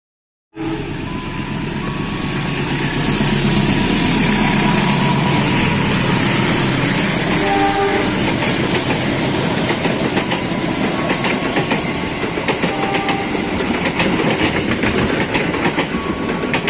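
A train running past close by, a loud steady rush with a low hum at first and then wheels clicking over the rail joints. It cuts in abruptly just after the start.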